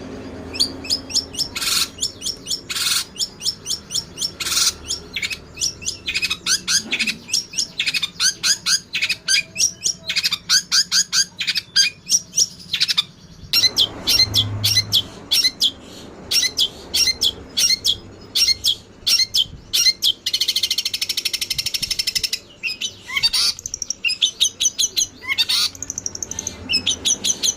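Eurasian tree sparrows fighting: fast runs of sharp chirps and chattering calls, with a short break about halfway and a dense buzzing trill a few seconds later.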